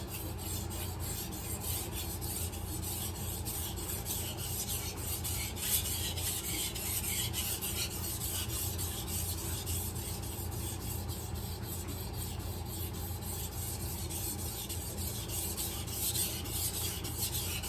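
Knife blade being stroked back and forth on a wet Cerax 800-grit whetstone: a steady run of repeated gritty scraping strokes.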